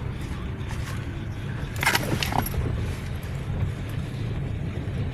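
Car driving on a rough dirt road: a steady low rumble of engine and tyres, with one sharp knock about two seconds in, as from a jolt over a bump.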